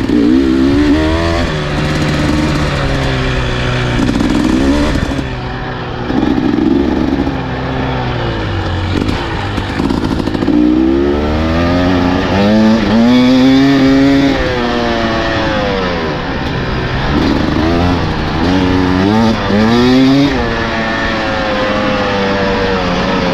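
Dirt bike engine on trail, its pitch climbing and falling over and over as the throttle opens and closes through the gears. There are several quick rising revs in the second half.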